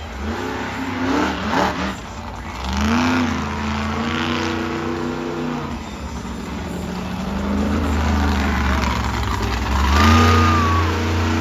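Monster truck engine revving hard in several bursts, its pitch climbing and holding with each blip of the throttle over a low rumble.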